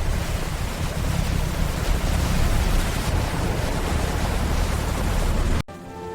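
Heavy rain: a loud, steady rushing with a deep rumble underneath, cutting off abruptly near the end.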